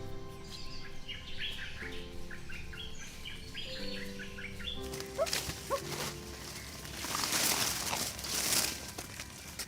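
Birds chirping in quick short calls over soft background music with held notes. Near the end a louder hissing, rasping noise lasts about two seconds.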